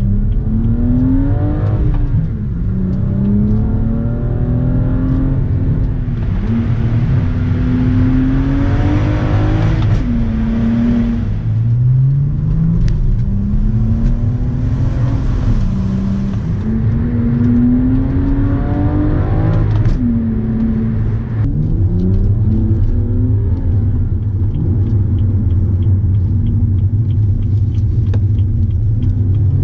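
BMW M235i's 3.0-litre turbocharged straight-six, its exhaust running with the muffler and resonator deleted, pulling hard through the gears. The pitch climbs and drops back at each upshift about four times in the first twenty seconds, then holds steady at a lower pitch before climbing again near the end.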